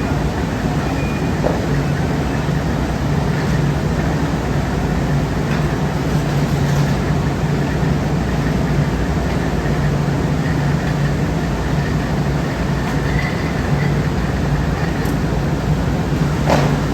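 Steady drone of workshop machinery, a constant low hum over dense mechanical noise, with a couple of faint clicks or knocks.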